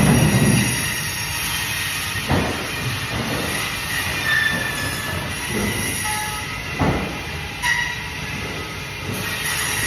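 A bandsaw running and cutting through fish, a steady whirring with the blade squealing at times. A few sharp knocks stand out near the start, after about two and a half seconds and after about seven seconds.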